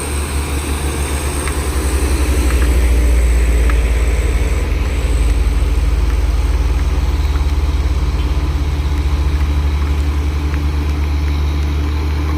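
Mitsubishi Fuso 6x2 truck's diesel engine labouring up a steep grade: a deep, steady drone with a fast pulsing beat, getting louder about two seconds in and holding, over the hiss of heavy rain.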